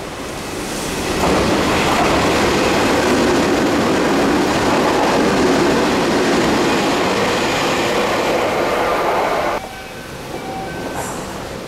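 Keio 1000 series express train running through the station at speed on rain-soaked track: a loud, steady rush of wheel-on-rail noise and splashing spray that cuts off sharply near the end.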